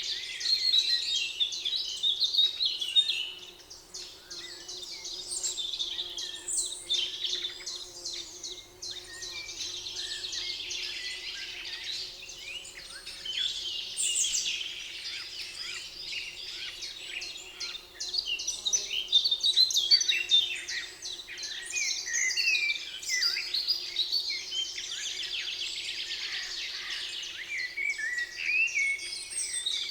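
Several songbirds singing and chirping at once in a spring forest, overlapping trills and quick chirps all through, over a faint steady hum.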